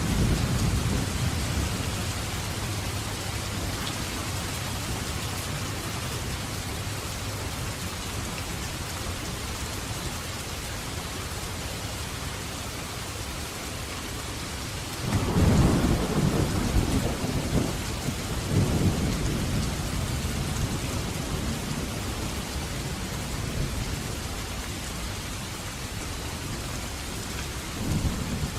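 Steady heavy rain hissing, with thunder rumbling low at the start, a louder rolling peal about halfway through, and another brief rumble near the end.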